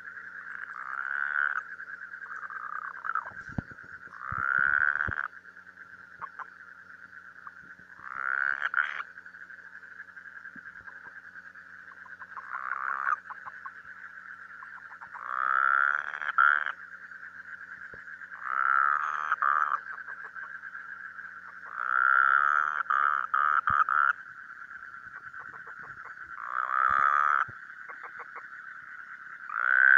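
An animal calling over and over, each call about a second long, repeated every three to four seconds over a steady high-pitched drone.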